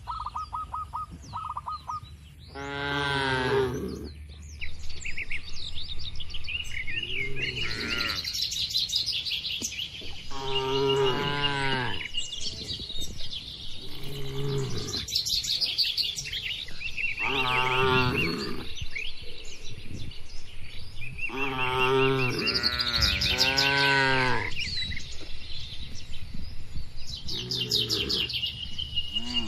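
Cattle mooing repeatedly, one call every few seconds, with birds chirping high above them throughout.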